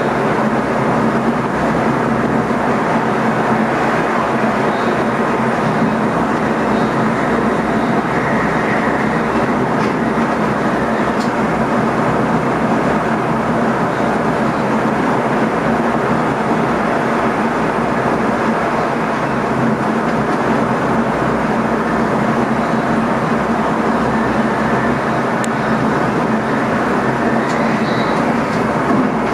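Steady running noise of an NS ICM electric multiple unit travelling at speed, heard inside the driver's cab, with a constant hum under it.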